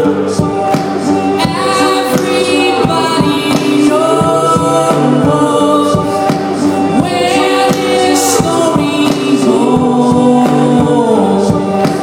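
Band music with several singing voices holding long notes together over a steady drum beat.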